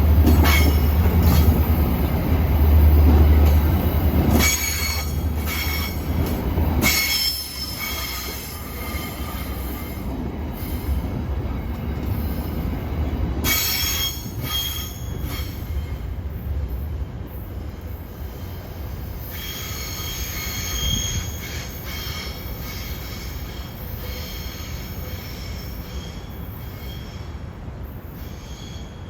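A train rolling past with its wheels squealing against the rails, thin high-pitched squeals coming and going. A heavy low rumble dies away after the first several seconds, and the whole sound slowly fades.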